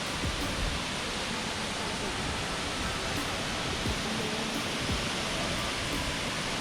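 Nachi Falls, a tall waterfall, rushing as a steady, even hiss of falling water, with occasional soft low thumps.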